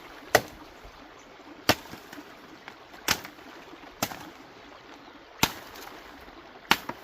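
Six sharp clicks or knocks, evenly spaced about one every second and a bit, over a faint outdoor background hiss.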